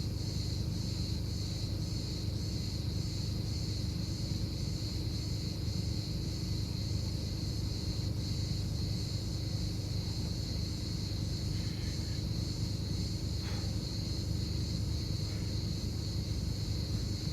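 Insects chirping steadily in a high, even pulse of about two a second, over a constant low rumble. About two thirds of the way through there is a brief falling whistle.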